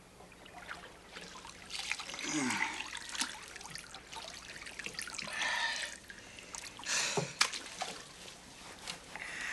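Water trickling and splashing in a tub as someone washes, in irregular pours and sloshes with a few small knocks.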